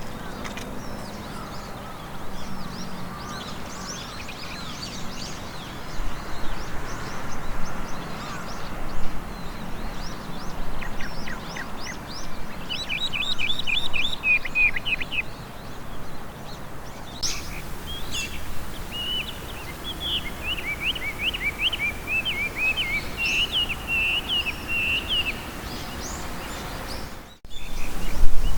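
Chinese hwamei (Garrulax canorus) singing: a varied run of loud whistled phrases, including quick trills of repeated notes and series of down-slurred whistles.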